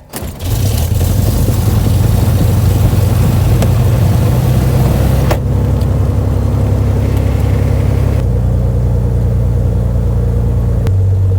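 Mooney Ovation's Continental IO-550 six-cylinder engine cranking and catching about half a second in, then running steadily at low power after a cold-weather-free start. Its note changes in steps three times, about five, eight and eleven seconds in.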